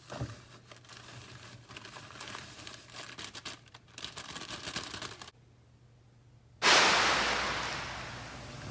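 Crinkling and rustling with many small clicks as boxed cake mix is poured out of its packet. About two-thirds of the way through, a sudden loud rushing noise starts and slowly fades.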